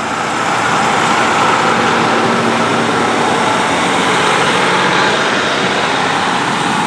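Class 150 Sprinter diesel multiple unit pulling out, its underfloor diesel engines working under power. The noise builds over the first second, holds steady with a faint hum, and eases slightly near the end.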